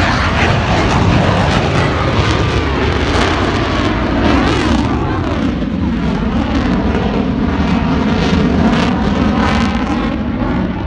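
F-22 Raptor's twin Pratt & Whitney F119 turbofans, a loud, continuous jet roar from a flyby, sweeping in pitch as the jet passes.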